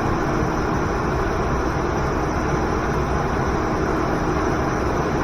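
Steady rushing of a waterfall and river, an even, unbroken roar.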